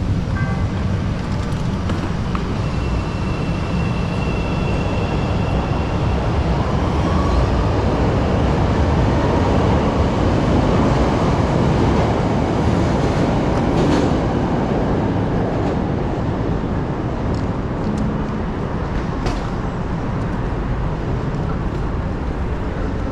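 Chicago 'L' Green Line rapid-transit train running, a steady rumble of wheels and motors. A faint high whine sounds for a few seconds early on.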